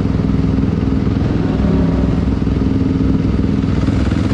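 Dirt bike engine running at fairly steady revs, a continuous drone with no clear rise or fall.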